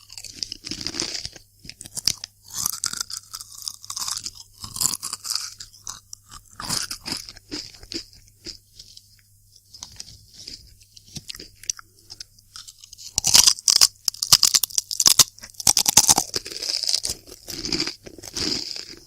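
Close-miked crunching and chewing of multigrain crisps, in irregular crunches. The crunches come thicker and louder for a few seconds about two thirds of the way through.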